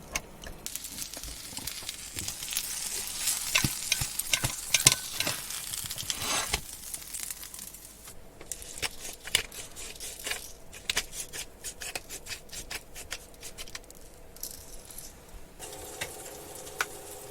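Hot food sizzling and crackling, with many sharp clicks, busiest in the first six seconds; a faint steady hum comes in near the end.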